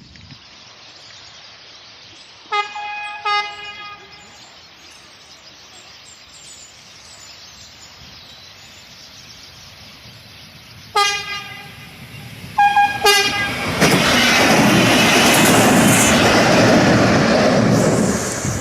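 Passenger train UTS610 sounding its horn, a chord of several notes: two short toots, then a longer blast and two more short toots about eight seconds later. Then the train passes close by, a loud rush of wheels and running that starts fading near the end.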